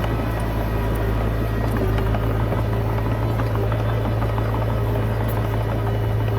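Komatsu D20P crawler bulldozer's diesel engine running steadily under load, a deep even drone with scattered small clanks.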